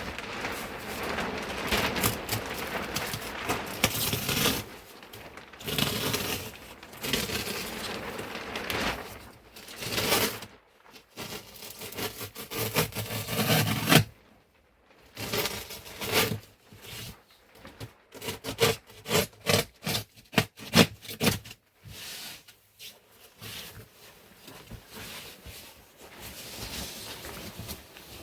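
Irregular scraping and rubbing in long bursts with short pauses, then a run of quick, sharp scrapes and cracks about two thirds of the way through.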